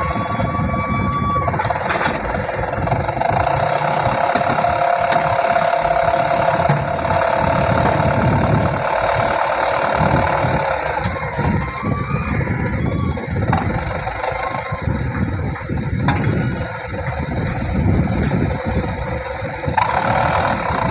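Dump truck's diesel engine running under load, its level rising and falling, with a steady whine over it for several seconds near the start.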